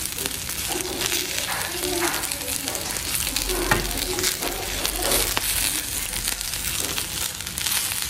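Grated coconut, urad dal and curry leaves sizzling in coconut oil and ghee in a non-stick pan, while a spatula stirs and scrapes through the mix, with one sharp tap about halfway.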